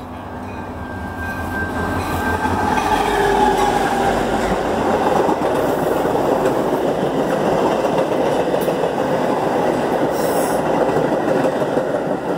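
Metra commuter train passing close by. The diesel locomotive's engine rumble builds and passes over the first few seconds, then the double-deck passenger cars roll by with a loud, steady noise of wheels on rails.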